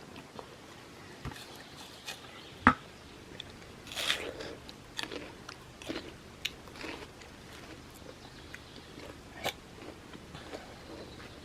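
Irregular small clicks and knocks, with one sharp knock about two and a half seconds in and a denser run of taps a little later.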